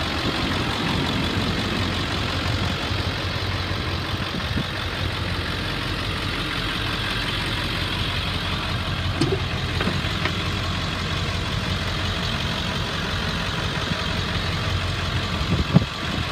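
2000 Ford F-450's 7.3-litre Power Stroke turbo-diesel V8 idling nice and steady, fully warmed up after running over an hour.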